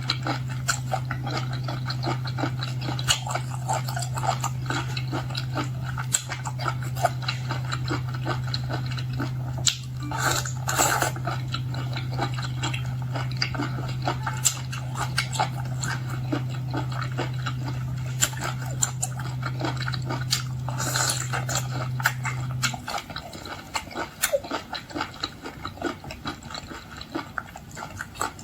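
Close-up wet chewing and lip-smacking of a person eating sea cucumber, many small squelches and smacks. A steady low hum runs underneath and stops about six seconds before the end.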